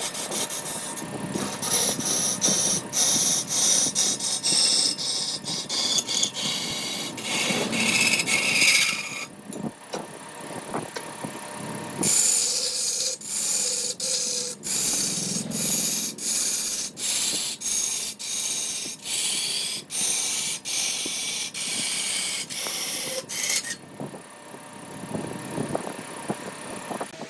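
A hand tool rubbing on wood in regular back-and-forth strokes, about one a second, with a break about a third of the way in and the strokes stopping near the end.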